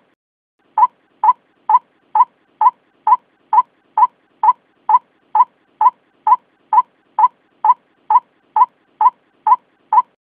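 White-breasted waterhen calling: a steady, evenly spaced series of short notes, all on the same pitch, a little over two a second, starting about a second in.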